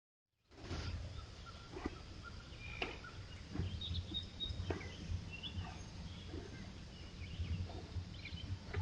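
Woodland ambience: a steady low rumble with scattered short bird chirps and a few light ticks or snaps.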